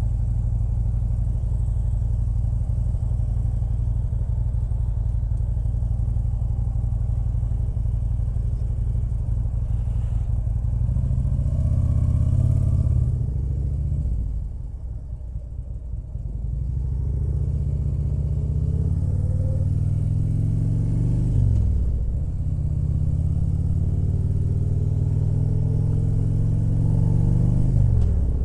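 Motorcycle engine running steadily for about ten seconds, then pulling away. The revs rise, ease off briefly, and climb twice more, each climb ending in a sudden drop as it shifts up a gear.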